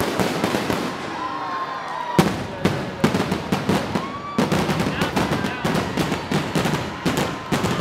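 Fireworks finale: a rapid salvo of bangs and crackles, sparse at first and then dense from about two seconds in, with crowd voices underneath.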